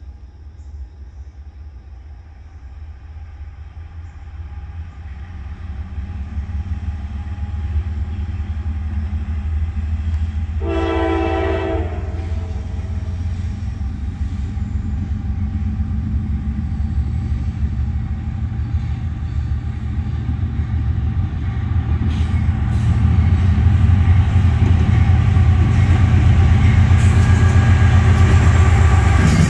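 Norfolk Southern diesel freight locomotives, led by NS 4318, approaching: a low engine rumble grows steadily louder, with one short horn blast about eleven seconds in. Rail and wheel noise with clicking comes up near the end as the lead units pass.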